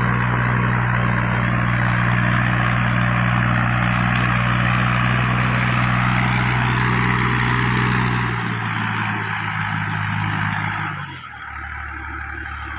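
Tractor diesel engine running steadily at working speed. About two-thirds of the way in its lowest tones drop away, and near the end it becomes quieter.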